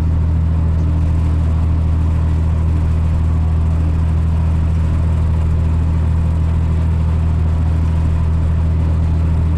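Tractor engine running steadily while pulling a bush hog rotary mower, heard from inside the cab: an even low drone that holds without change.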